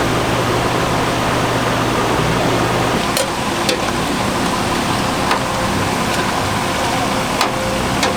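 Churro dough deep-frying in a vat of hot oil, a steady sizzle, with a few light clicks of utensils.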